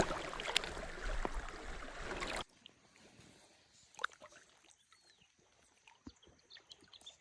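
Loud, steady outdoor rushing noise that cuts off abruptly about two and a half seconds in. It gives way to near quiet, with faint scattered ticks and one short bird chirp about five seconds in.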